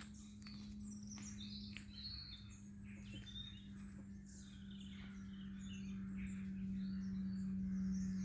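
Woodland songbirds chirping and trilling, many short high calls overlapping. Under them a steady low tone grows louder through the second half.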